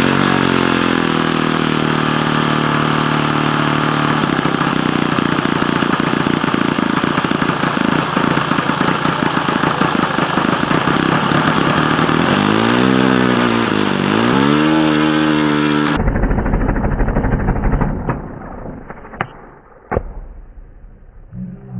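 Model airplane engine running steadily, revved up and down twice, then cutting off abruptly about three-quarters of the way through as the propeller spins off. After that there is a fainter low rumble and a few sharp clicks.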